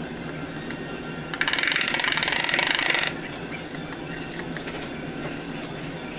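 A small power tool runs in one burst of about two seconds with a fast, even buzz, over a steady workshop background with faint clicks.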